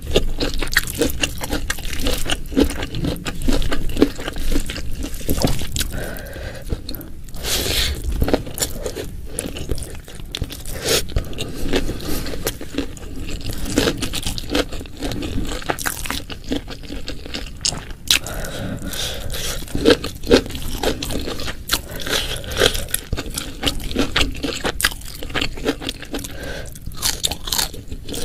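Close-miked eating sounds: a person chewing and crunching food, with frequent sharp crunches and scrapes, and no speech.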